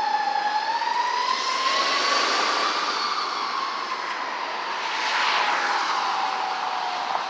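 Fire truck siren in a slow wail: its pitch rises slightly, then sinks steadily over several seconds as it winds down. Engine and road noise run under it and swell about five seconds in as the truck goes by.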